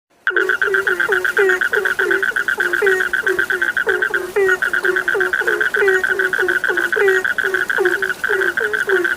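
A chorus of frogs calling, starting abruptly just after the opening. A high, rapid pulsing trill runs almost without a break. Under it, a lower croak that drops in pitch repeats several times a second.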